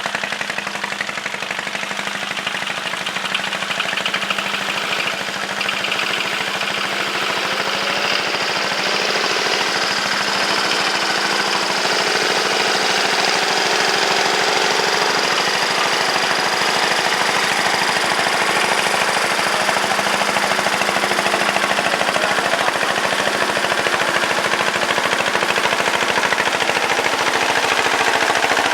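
Tractor engine running steadily with a rapid, even knocking beat.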